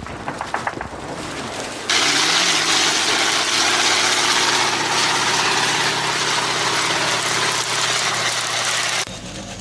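Added sound effect of a heavy engine running steadily under a loud rushing noise. It cuts in abruptly about two seconds in and cuts off just as suddenly near the end, after a few sharp clicks at the start.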